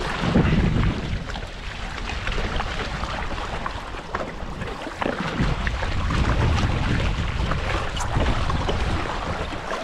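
Wind buffeting the microphone in gusts over water rushing and splashing along the hulls of a Hobie 16 catamaran under sail.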